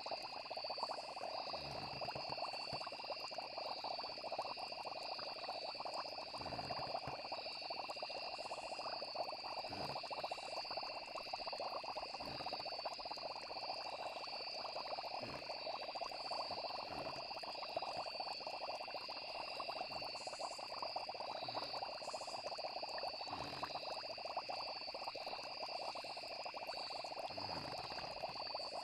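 Night chorus of frogs and insects, steady and unbroken, with a high continuous trill over a dense croaking chatter, and soft low pops every few seconds.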